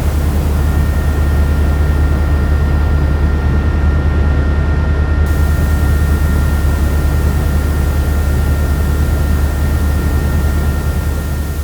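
Helicopter running steadily: a loud, deep, even drone with two steady high whining tones over a noisy rush, fading out near the end.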